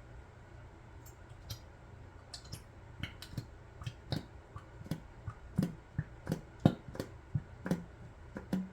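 Irregular light clicks and plastic taps of resin-crafting cups and tools being handled, denser and louder through the second half, over a low steady hum.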